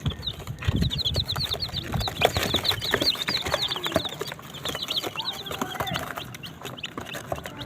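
Many chicks peeping, a dense run of short high notes in quick succession that thins out midway and picks up again near the end, with scattered small clicks and knocks.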